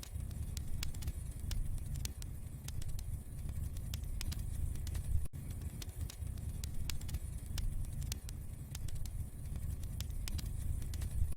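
Wood fire crackling in a fireplace: frequent sharp pops and snaps over a low, steady rumble of the burning flames.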